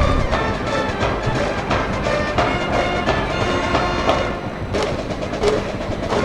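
High-school baseball cheering band in the stands playing a brass-and-drum cheer song, the horns holding a melody over a steady drum beat.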